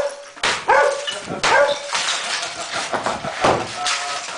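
A dog barking several times in short sharp barks, mixed with sharp cracks or knocks.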